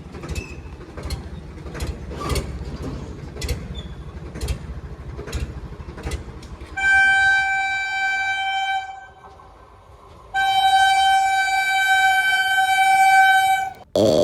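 Train running past with its wheels clacking over the rail joints at a steady rhythm. Then the locomotive horn sounds twice, a blast of about two seconds followed by a longer one of about three and a half seconds.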